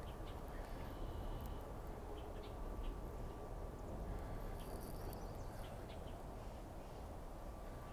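Steady low background rumble with scattered faint, short high-pitched chirps, likely from birds, and a thin steady whine underneath.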